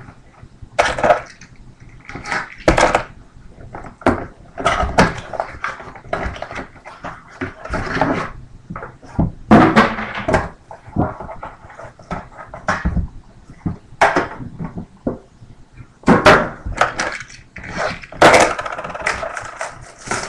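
A sealed box of trading cards being opened and its packaging handled: irregular rustling and tearing with scattered knocks.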